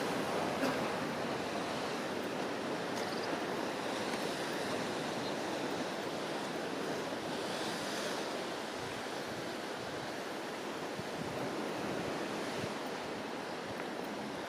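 Ocean surf washing steadily against the shore, with some wind on the microphone.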